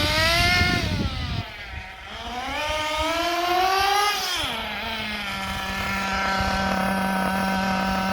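Kyosho RB 21 nitro engine of an MP10 buggy revved up twice, the pitch climbing and then dropping off each time. From about halfway through it settles into a steady idle, its carburettor being tuned from the break-in setting toward a single-stage idle.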